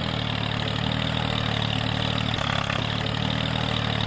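Tractor engine running steadily at a low, even pitch with a fast, regular pulse.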